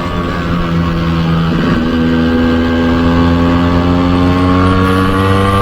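Yamaha RX 135's two-stroke single-cylinder engine running under way, with a short dip about a second and a half in and then a steady rise in pitch as it pulls harder.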